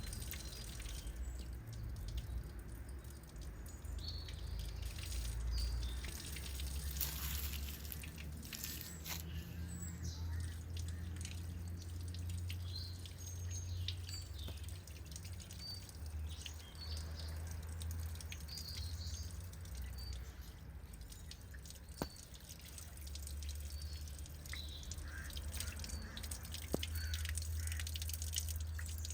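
Small birds chirping on and off, over a steady low rumble with scattered light taps and clicks.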